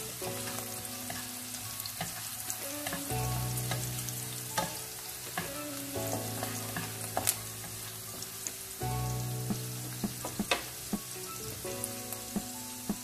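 Chopped garlic and green chillies sizzling in a little oil in a non-stick kadhai over a high flame, with a wooden spatula scraping and tapping against the pan now and then as they are stirred.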